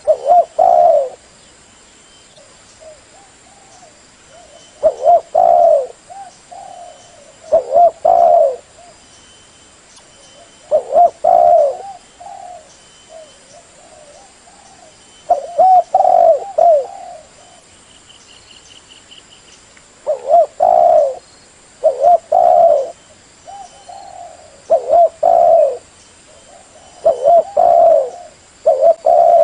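Spotted dove cooing: loud coo phrases repeated every few seconds, with softer coos between them. It is the call of a decoy dove, used to lure wild spotted doves into answering.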